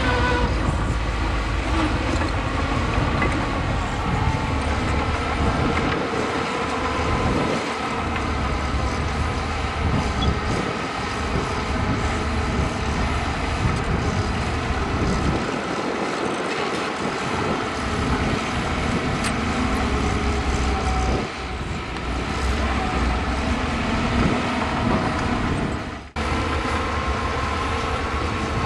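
Heavy earthmoving machinery running continuously: the diesel engines of a bulldozer and dump trucks at work, a dense mechanical din with a steady whine running through it. Near the end the sound drops out for an instant.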